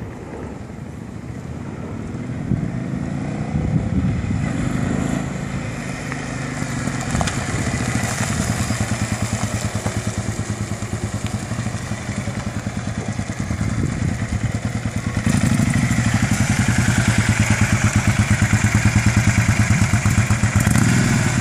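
Kawasaki Vulcan 750 V-twin motorcycle engine getting louder as the bike rides slowly toward and past, then running close by with a steady, even pulsing beat from about fifteen seconds in.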